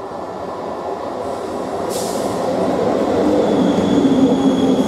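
Electric multiple unit (EMU) local train running through the station at speed, its rumble of wheels on rail growing louder as it draws level and passes. A thin, high wheel squeal comes in about halfway, and there is a short hiss about two seconds in.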